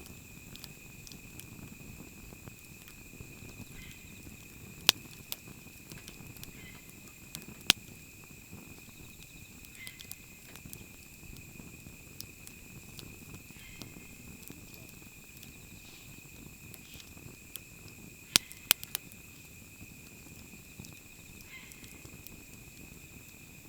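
Wood fire burning with a low steady rumble, broken by occasional sharp pops and cracks: single ones about five and eight seconds in and a quick cluster of three near the end. A steady high-pitched tone runs underneath.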